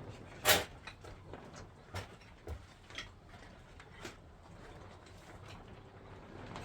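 A few sharp knocks and clicks of hard objects being handled: one loud knock about half a second in, then lighter knocks about once a second, dying away after about four seconds.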